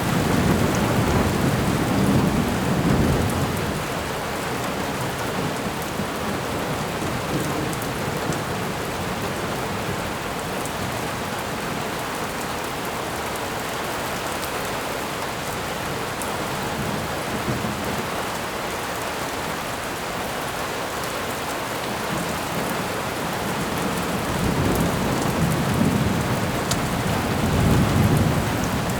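Thunderstorm: steady rain falling, with a low thunder rumble in the first few seconds and another rolling rumble building near the end.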